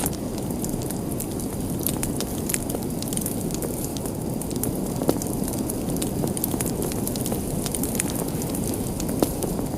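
Fire burning in a fireplace: a steady low rush of flames with scattered sharp crackles and pops, a louder pop about five seconds in and another near the end.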